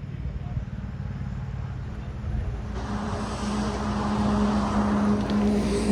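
A vehicle engine runs steadily. From about three seconds in, road noise and a steady engine tone swell gradually, like a vehicle drawing closer.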